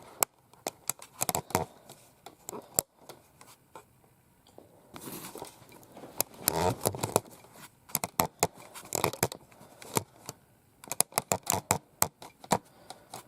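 Toys and packaging being handled: a string of sharp clicks and knocks, with scraping and rustling between them, busiest in the second half.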